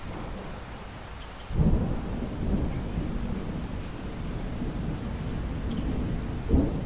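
Steady rainfall with a sudden clap of thunder about a second and a half in, its low rumble rolling on, and another loud crack near the end.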